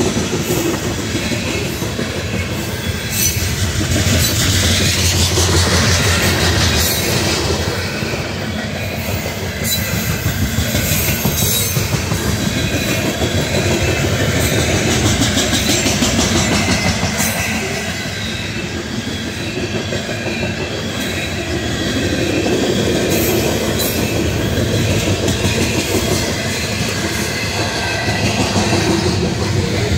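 Loaded-style coal train of aluminium rapid-discharge coal gondolas rolling past at speed. A steady rumble of wheels on rail carries a continuous rhythmic clickety-clack as wheel sets cross rail joints, swelling and easing slightly as the cars go by.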